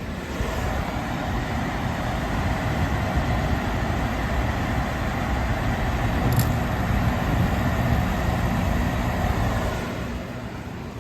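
2010 Everstar 10,000 BTU portable air conditioner running with a steady rumbling hum. Just after a click at the start it grows louder; there is another click about six seconds in, and it eases back down near the end.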